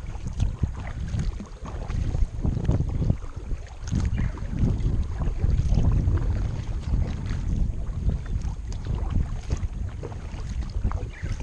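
Wind buffeting the microphone in a low, uneven rumble over a kayak being paddled, with the paddle blades splashing and dripping in the water.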